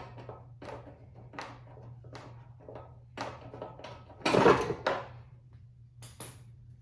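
Ratchet wrench clicking in short strokes as a bolt is worked loose, then a louder metal clunk about four seconds in and a smaller one just after, as parts of the scooter's exhaust come free.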